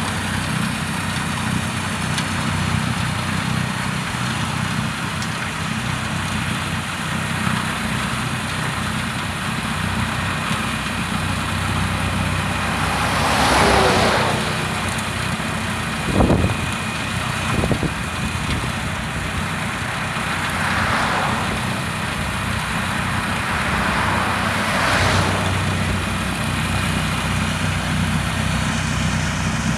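Heavy snow-removal machine's engine running steadily under a constant rushing noise, with a louder rushing surge about halfway and two short knocks a couple of seconds after it.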